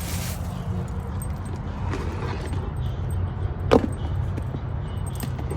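Steady low rumble of a car heard from inside the cabin, with light clicking and jingling over it and one sharper click a little past the middle.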